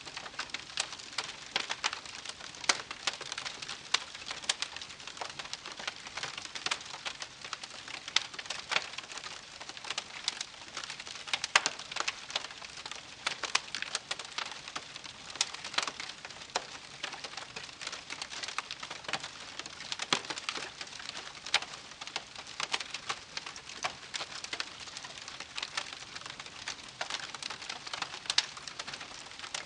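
Wood campfire crackling: a dense, uneven run of sharp pops and snaps over a soft, steady hiss.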